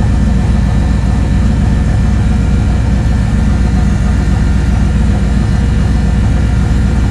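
Turbocharged 5.3-litre LS V8 idling steadily.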